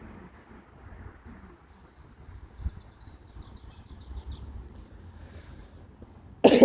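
A person coughing twice in quick succession near the end, over quiet outdoor background noise with faint high chirping in the middle.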